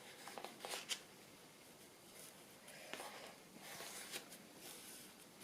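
Faint handling sounds of paper and fabric: soft rustling with a few light taps and clicks as a glued fabric pocket is pressed down on a journal page.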